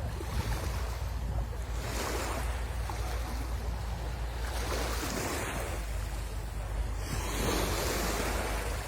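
Sea waves breaking and washing up the shore, a fresh wash of surf swelling every two to three seconds over a steady low rumble.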